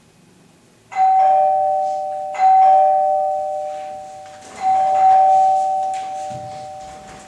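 Two-tone ding-dong doorbell chime, rung three times in a row, each ring a higher note followed by a lower one that fades away slowly.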